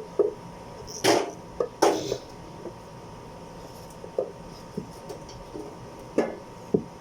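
Metal engine parts and hand tools clinking and knocking as they are handled, a run of separate sharp clicks with two louder clunks about one and two seconds in and a few more near the end.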